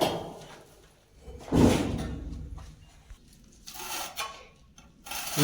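Handling knocks from masonry work: a heavy knock dying away at the start, another deep knock about 1.5 s in, then lighter clatter near the end.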